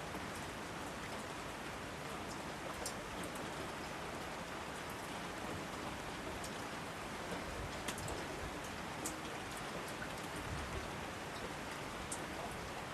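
Steady rainfall, an even hiss with scattered individual drips ticking through it.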